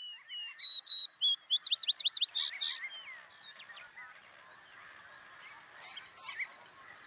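Birds singing: a burst of clear whistled notes and quick chirps in the first three seconds, then fainter, scattered calls over a soft hiss.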